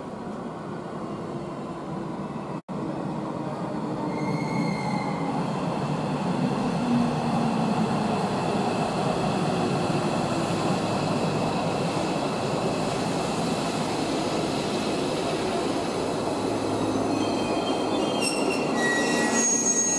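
Tobu 500 series Revaty electric limited express pulling into a platform, its running noise building as the cars come alongside and then holding steady. Thin high squealing tones from the wheels and brakes come and go, clearest near the end as it slows to a stop.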